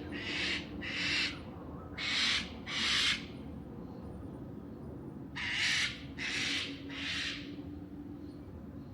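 A bird gives harsh, raspy calls in three quick series of three, two and three. Under them runs the steady low hum of a robotic lawn mower.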